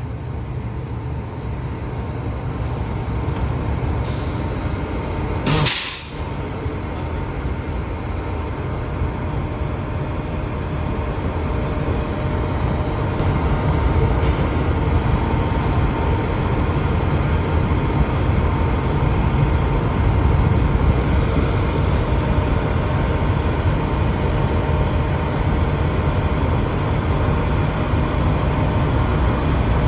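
Diesel-electric locomotive engine running at a standstill, a steady low rumble that grows louder over the first dozen seconds. A short, loud release of air about six seconds in.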